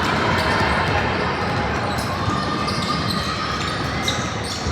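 Indoor game ambience: a steady murmur of crowd chatter, with a few sharp knocks near the end.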